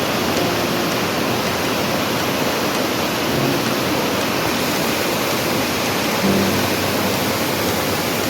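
Waterfall rushing: a steady, dense hiss of falling water with no breaks.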